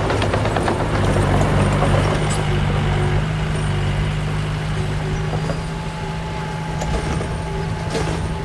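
Diesel engine of earthmoving machinery running steadily, with a constant low hum and frequent metallic clanks and rattles.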